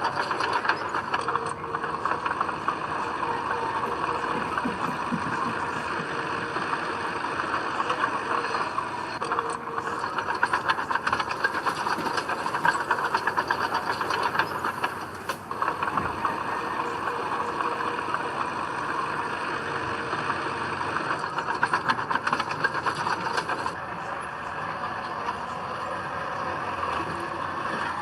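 Heavy diesel earthmoving machinery running with a steady, dense metallic rattle.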